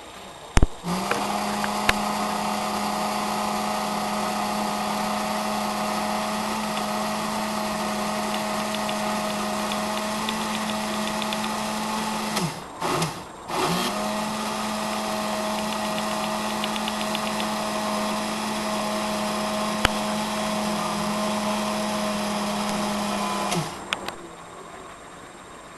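Small electric motor running at a steady speed with a high hum. It starts with a click about a second in, winds down and stops briefly about halfway, runs again, then winds down and stops near the end.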